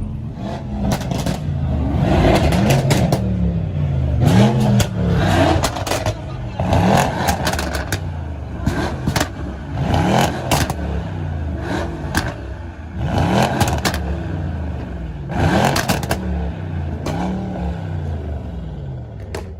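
A modified car's engine is revved over and over, its pitch rising and falling about every one to two seconds. Sharp pops and cracks come through the revs, many bunched as each rev drops.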